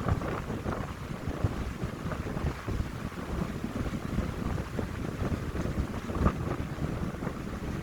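Wind blowing through a pine grove and buffeting the microphone: a steady, gusty low rumble with fluttering, and a sharper gust hitting about six seconds in.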